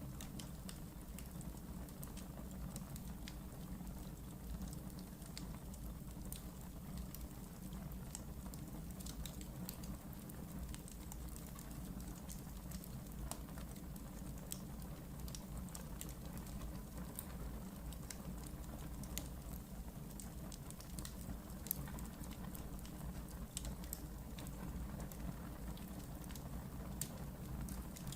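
Wood fire burning in a fireplace, with a steady low rumble and scattered sharp crackles and pops throughout.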